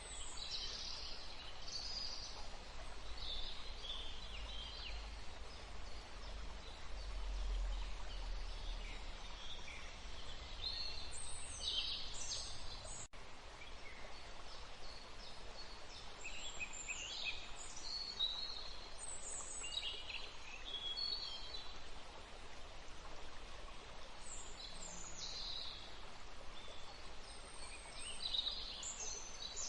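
Songbirds singing, clusters of short high chirps and trills coming and going over a steady background hiss.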